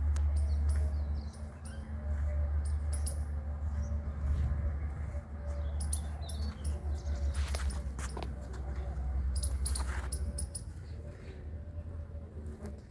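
Small birds chirping: many short, very high chirps in quick, irregular succession, over a steady low rumble.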